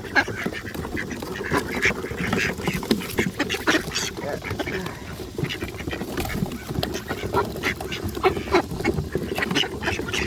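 A flock of ducks quacking continuously and overlapping while they crowd and scramble for food, with scattered knocks and scuffs from their feet.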